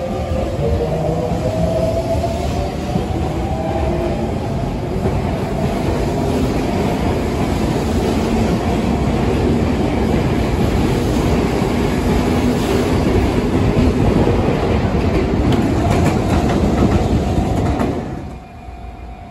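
Sotetsu electric commuter train pulling out alongside the platform: its traction-motor whine rises in pitch over the first few seconds, then gives way to a steady rumble and clatter of wheels as the cars pass close by. The sound drops away abruptly near the end.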